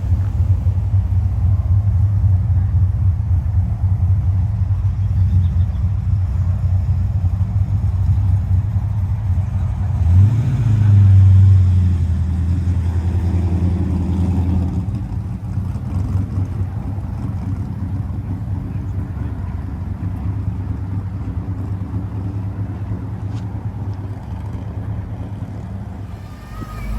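Car engine idling, revved once about ten seconds in and held up for a few seconds before dropping back to idle.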